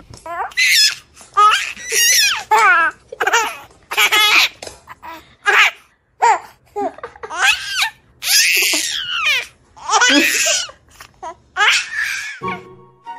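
Repeated bursts of high-pitched laughter, like a baby laughing, over faint background music.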